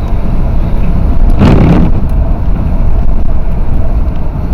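Steady low rumble of a car driving, with wind buffeting the microphone; a short burst of noise about a second and a half in.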